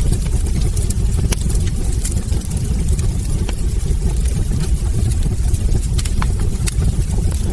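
Wood fire burning in a hearth: a steady low rumble of flames under frequent, irregular sharp crackles and pops from the burning logs.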